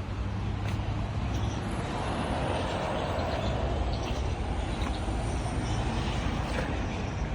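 Steady low rumble of a running vehicle engine with a haze of wind and road noise, swelling slightly a couple of seconds in.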